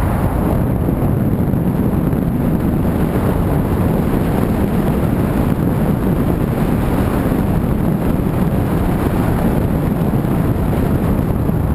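Car on the move: steady low rumble of road and engine noise, with wind noise over it.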